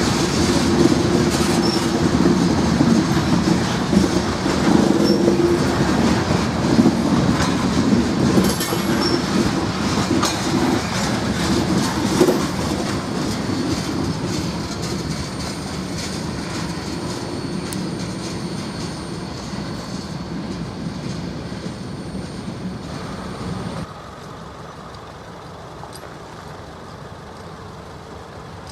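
Norfolk Southern freight train rolling past, its wheels clattering over the rails with a thin squeal. The noise fades gradually and drops off suddenly about 24 seconds in.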